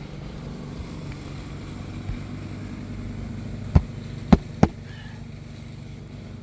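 Three sharp knocks of a roofing hammer working on asphalt roof shingles, coming close together a little past the middle, over a steady low hum.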